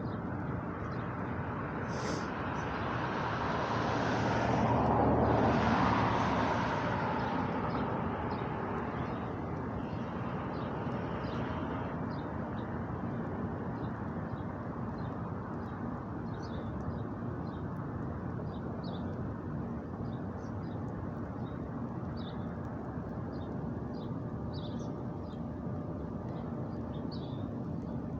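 A car passes on a nearby road, its noise swelling and fading over several seconds, over steady outdoor background hiss. Faint short high ticks are scattered throughout.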